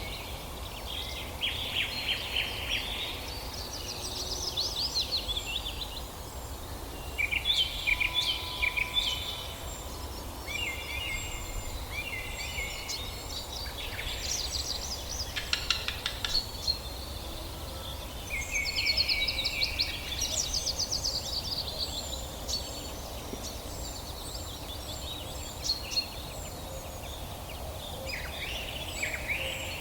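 Indian ringneck parakeet giving harsh, screechy calls in repeated bursts of a second or two. Faint high chirps and steady background noise run underneath.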